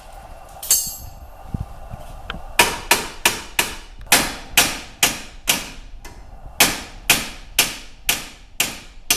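A hammer hitting metal in a steady run of about fifteen ringing blows, about two a second, after a single blow near the start. The hammer is knocking a steering knuckle extension into place on a car's front suspension.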